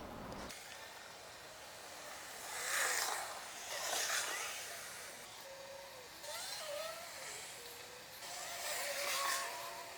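Leaves and stems rustling in four short bursts as flowering plants are handled and cut back, with faint chirping bird calls behind them in the second half.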